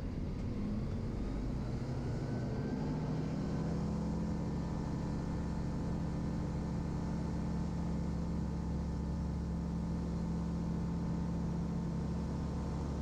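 Van's RV-12 light aircraft's engine going to full throttle for the takeoff roll of a touch-and-go, its pitch rising over the first few seconds and then holding steady.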